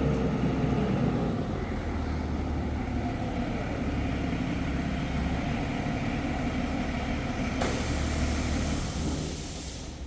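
A vehicle engine running steadily with a low rumble, dropping away about nine seconds in.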